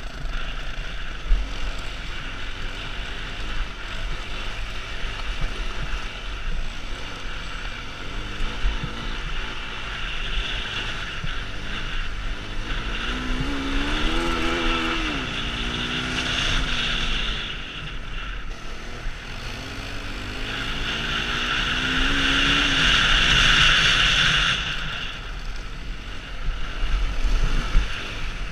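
Honda CRF250L motorcycle engine running under way with heavy wind noise on the microphone; the engine note rises and falls twice.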